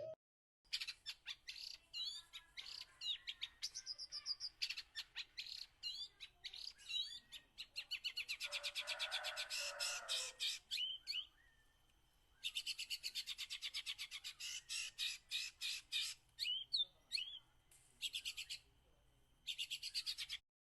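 Small songbirds chirping and calling in rapid runs of short high notes, with a few short whistled phrases mixed in. The chirping breaks off abruptly into silence several times.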